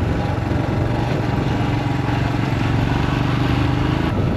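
Royal Enfield Himalayan single-cylinder motorcycle engine running steadily, its pitch creeping up slightly in the second half as it pulls away.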